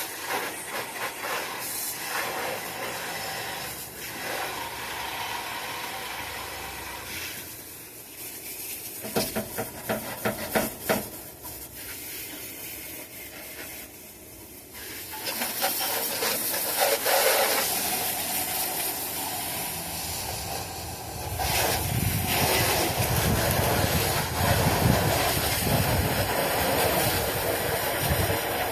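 Spray hissing across an oily engine bay, with a few sharp clicks partway through and a lower rumble coming in over the last third.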